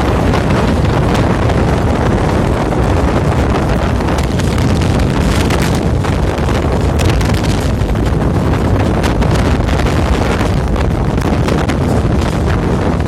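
Steady rumble and rush of a moving train heard from on board, with wind buffeting the microphone and scattered faint clicks.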